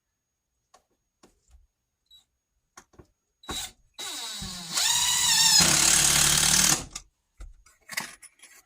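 Power drill driving a screw: the motor whirs up in pitch and runs for about three seconds, then stops. Light clicks and knocks come before and after it.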